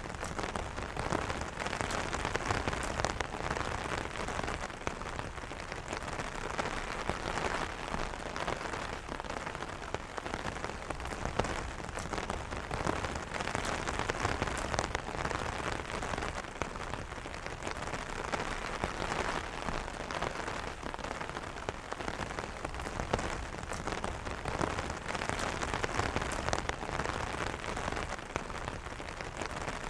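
Steady rain drumming on an umbrella canopy, a dense patter of many small drop taps.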